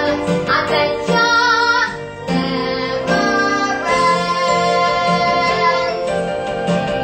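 Young voices singing a song with instrumental accompaniment, with a brief dip about two seconds in before the singing and music carry on.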